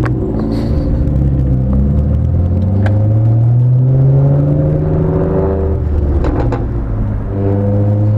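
Vehicle engine accelerating hard: its pitch climbs steadily for a few seconds, drops back at a gear change about six seconds in, then climbs again.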